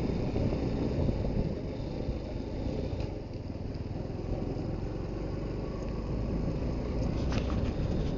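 Suzuki GD110HU motorcycle's single-cylinder four-stroke engine running steadily.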